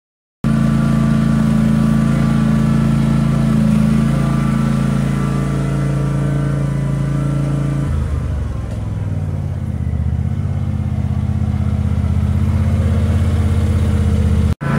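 John Deere X310 garden tractor engine running steadily while it drives a 44-inch snowblower through heavy, wet snow. Its pitch shifts about halfway through, and the sound cuts out briefly near the end.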